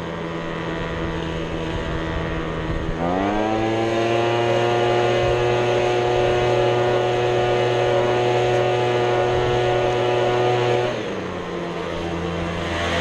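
Small gas engine of handheld lawn equipment throttled up and down. It runs at low speed, revs up about three seconds in, holds at high speed, then drops back to idle near the end.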